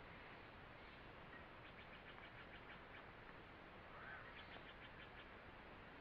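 Faint forest ambience with a distant bird trilling twice: a quick run of short, evenly spaced high notes, about eight a second, and a single chirp just before the second trill.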